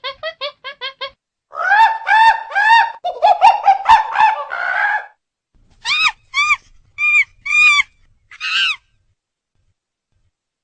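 Chimpanzee calling: a quick run of short calls, then a louder run of longer arching calls, then five spaced calls, stopping about nine seconds in.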